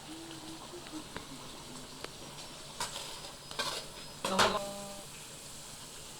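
Chicken pieces frying in a pan with a steady sizzle while a metal spoon stirs and scrapes them, clanking against the pan a few times; the loudest clank, about four seconds in, rings briefly.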